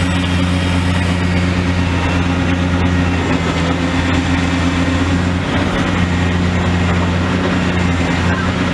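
An engine running steadily at a constant speed, a deep, even drone with no knocks or crashes.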